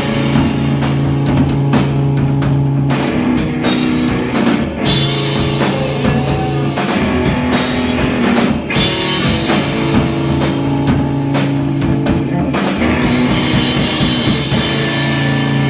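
A loud rock band playing live: a drum kit pounds steadily under guitars and bass holding long, low chords that change every few seconds.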